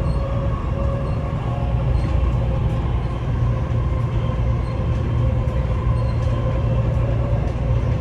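Dubai Metro train running between stations, heard from inside the car: a steady low rumble with a faint steady whine over it.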